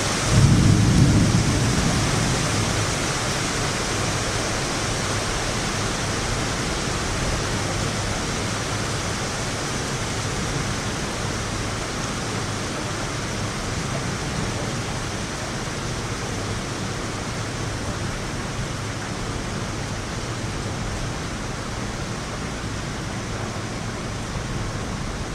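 Heavy rain falling steadily, with a clap of thunder about half a second in that rumbles low and dies away over several seconds.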